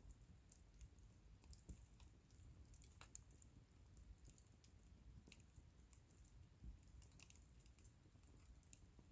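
Wood fire crackling faintly: scattered, irregular small pops and snaps over a low, steady rumble.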